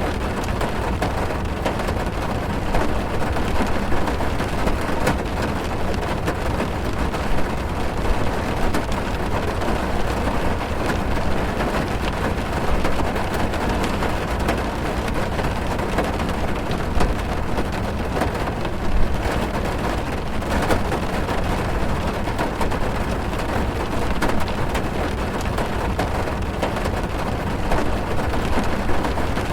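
Heavy rain drumming on a car's roof and windows, heard from inside the car: a steady rush with dense tapping of drops.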